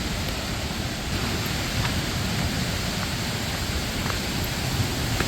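Steady rushing of ocean surf and a waterfall falling onto the beach.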